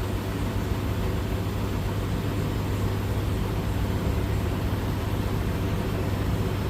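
Beko WS832425s washing machine spinning with an unbalanced load: a steady low hum over a continuous whirring, the drum vibrating hard enough to shake the tumble dryer stacked on top.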